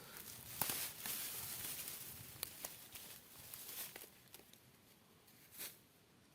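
Weeds and plant stems being pulled up by hand, a rustling and tearing of leaves with a few sharp snaps, dying down over the second half.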